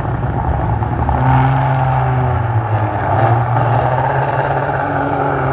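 Race truck engine running loud and steady, a deep drone with a few held higher tones over it.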